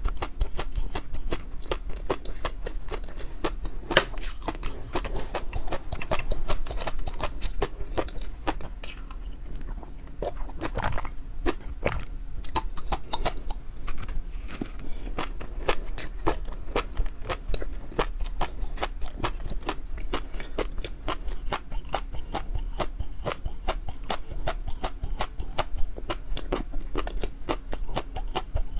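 Close-miked chewing and wet mouth clicks of a person eating, a quick, continuous stream of small smacks and crunches.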